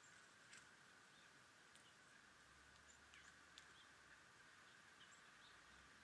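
Faint, scattered bird chirps: several short high calls and a couple of sharp clicks over a steady background hiss.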